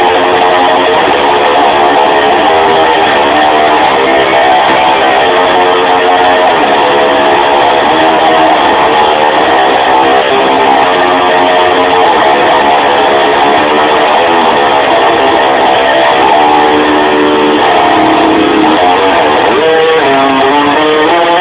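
Electric guitar playing continuously with changing notes and pitch slides near the end, the whammy-bar 'divebombing' the title names.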